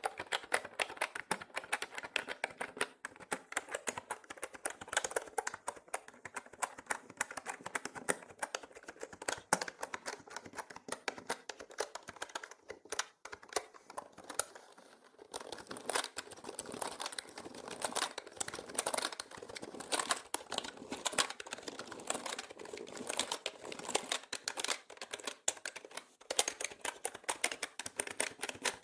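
Mechanical keyboard typing: rapid, continuous key clicks, thinning briefly about halfway through. The audio is processed as 8D, panning around the listener.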